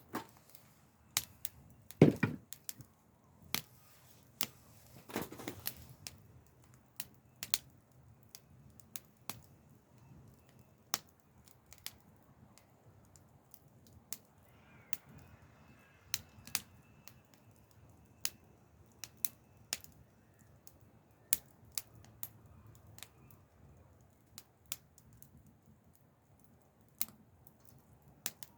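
Wood fire crackling: irregular sharp pops and snaps, about one or two a second, with the loudest about two seconds in.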